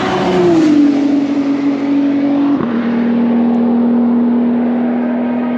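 A high-performance track car's engine running at steady high revs, its pitch easing down slightly in the first second, with a brief break about two and a half seconds in before it holds steady again.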